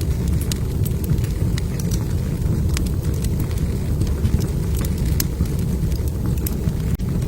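Log fire in a fireplace crackling, with scattered sharp pops over a steady low rumble of burning. The sound cuts out for a split second near the end.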